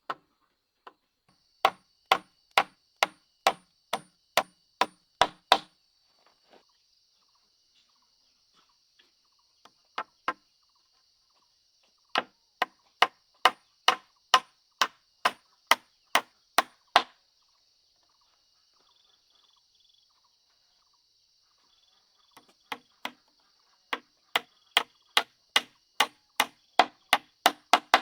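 Repeated sharp blows of a hand tool, about two a second, in three runs of eight to ten strikes separated by short pauses.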